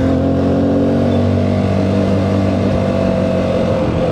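Motorcycle engine running at a steady pace on the road, its note easing slightly lower near the end, over a haze of wind and road noise.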